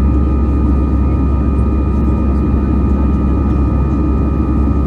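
Steady in-flight cabin drone of an Airbus A320-214: its CFM56 jet engines and the airflow make a low rumble, with a steady high whine held over it.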